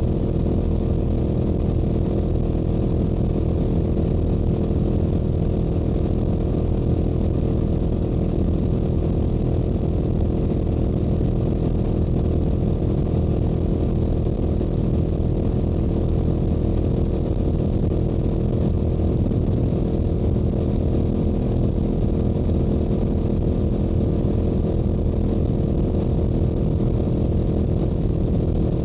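Stock exhaust of a Yamaha YZF-R7's 689 cc parallel-twin engine under steady cruising load on the highway, holding an even pitch, with a steady rush of wind and road noise underneath.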